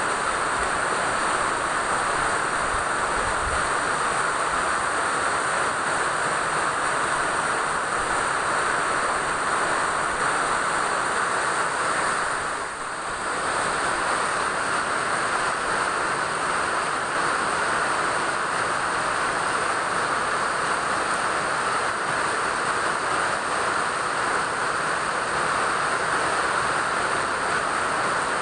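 Steady rain falling, an even hiss with no individual drops standing out, briefly dipping in level about halfway through.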